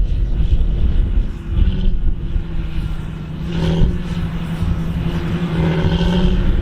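Large farm tractor's diesel engine running steadily under load, a steady drone over low rumble that swells about halfway through and again near the end.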